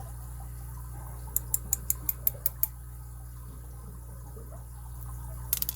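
Light, sharp clicks from small lock parts being handled: a quick run of about eight in just over a second, then a brief cluster near the end, over a steady low hum.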